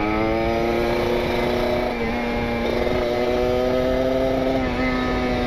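Kawasaki Ninja RR two-stroke single-cylinder engine running at high revs through an R9 aftermarket exhaust, pulling hard. Its pitch creeps upward with a brief dip about two seconds in and eases slightly near the end. The PWK28 carburettor is jetted rich, which the rider feels makes it run a little blubbery ("berbet").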